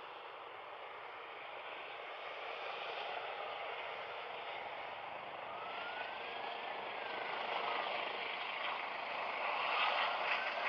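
Airbus H135 helicopter: turbine and rotor noise growing steadily louder. A whine twice rises and falls in pitch over the roar.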